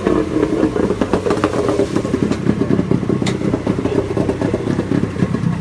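An engine idling steadily with a rapid, uneven putter.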